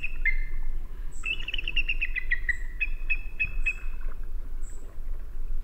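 Songbird singing: several quick runs of rapidly repeated notes, one stepping down in pitch, with faint high chips from another bird over a low steady rumble.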